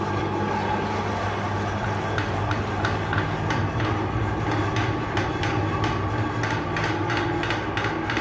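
Electric meat grinder motor running with a steady hum while hard food is crushed through it, giving rapid cracking and clicking that gets busier from about two seconds in.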